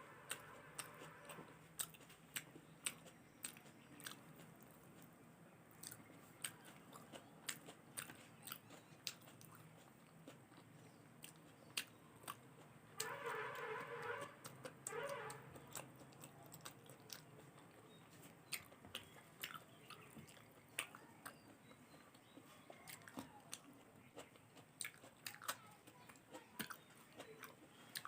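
Close-miked chewing of rice and curry: soft, wet mouth sounds with frequent sharp clicks and smacks. A brief pitched sound comes about halfway through.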